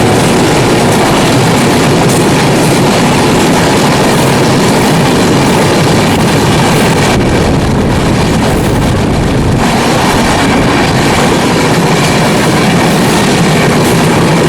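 A moving train running on its track: a loud, steady rolling noise of the wheels and carriage.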